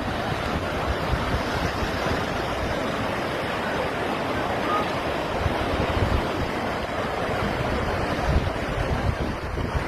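Steady rushing water of a heavy thunderstorm downpour and flash-flood runoff, with wind gusts buffeting the microphone as low rumbles.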